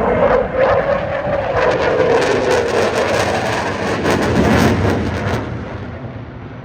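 Eurofighter Typhoon's twin EJ200 jet engines running loud as it flies past, with a slowly falling tone; the sound dies away over the last second or so.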